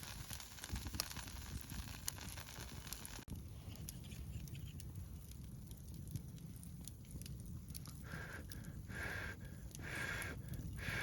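Campfire crackling with scattered pops over a hiss. After a sudden cut there is a steady low rumble, and near the end soft rasping bursts come about once a second.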